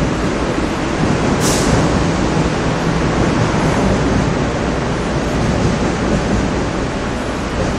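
Electric-hauled passenger train with 25T coaches passing through a station: a steady, loud rumble and rattle of wheels on rails, with a brief high hiss about a second and a half in.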